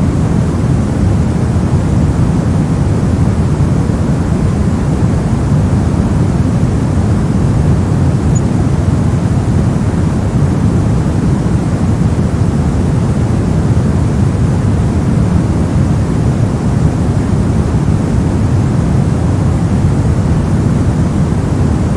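Continuous white noise from a sleep-and-study noise track: an even, unchanging rush with no events in it. It sits heavy in the low end, so it sounds deep rather than hissy.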